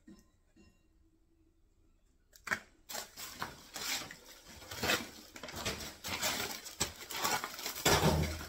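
Debris being handled and rummaged through: a dense run of irregular rustling, scraping and clattering that starts about two and a half seconds in, after a near-silent stretch.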